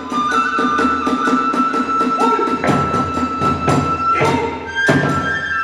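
Hiroshima kagura hayashi music: a bamboo transverse flute (fue) holding high, sustained notes over irregular drum strikes and the clash of small hand cymbals (tesuri-gane).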